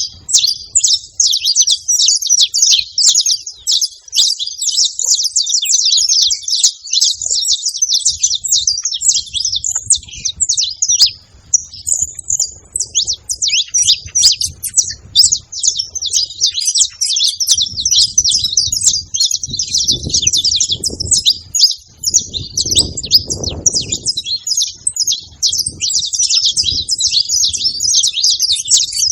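Saffron finches singing: a dense, continuous chorus of quick, high-pitched chirps and trills, overlapping with almost no pauses.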